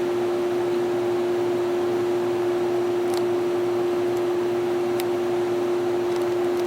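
Room air conditioner running steadily, compressor and fan going, giving a constant hum tone over airy blower noise, with a couple of faint ticks. It is cooling hard enough that frost is forming on its coils, which is normal for this unit.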